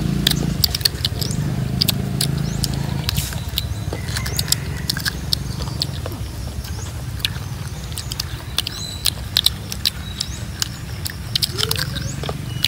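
Crunchy bites and chewing of firm fruit, many sharp irregular crackles over a steady low rumble.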